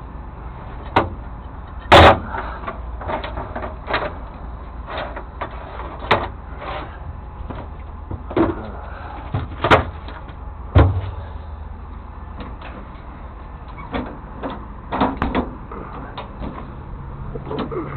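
Truck doors and metal compartment lids being opened and shut: a series of separate knocks and clunks, the loudest about two seconds in and another near eleven seconds.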